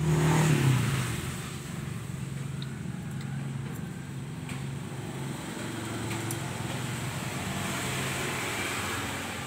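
A motor running steadily with a low, even hum, louder in the first second and then settling.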